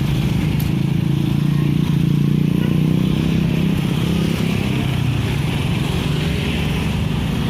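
Steady low rumble of passing vehicles with a steady hiss above it.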